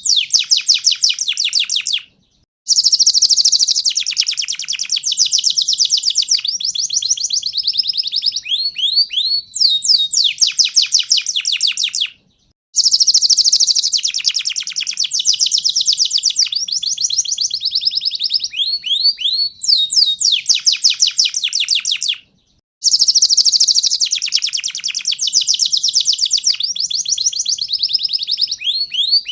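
Domestic canary (panda-marked kenari) singing its full, loud song of fast rolling trills and rapid chirping sweeps. The same song passage repeats about every ten seconds, each time after a sudden half-second break.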